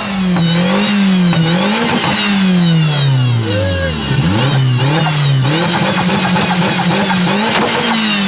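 A car engine being revved over and over, its pitch rising and falling about once every second or so and sinking lowest about halfway through.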